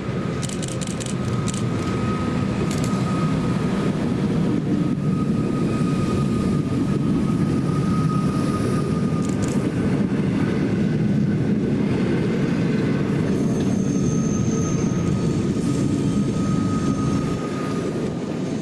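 Train running along the track: a steady low rumble of wheels on rail with a thin, steady high squeal over it, and a few sharp clacks over rail joints in the first few seconds.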